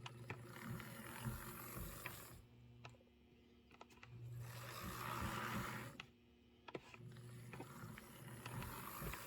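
HO-scale Proto 1000 RS-11 locomotive's small electric motor and gear train running in three short spells of about two seconds each. It is a quiet whir with a hiss and scattered clicks. The drive has just broken free from being seized after a little oil.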